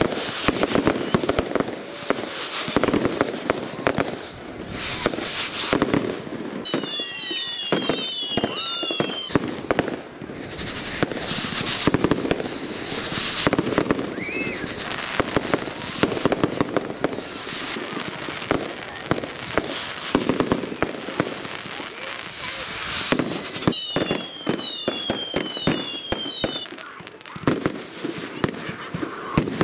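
Fireworks display: rapid bangs and crackling from bursting shells throughout. Twice, about a quarter of the way in and again about four-fifths in, a run of several falling whistles sounds over the bangs.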